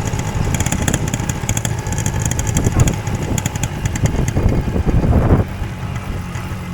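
Motorcycle engine running on the move, with loud rushing noise. About five and a half seconds in, the noise drops suddenly and the engine settles to a quieter, steady run, as when the bike slows.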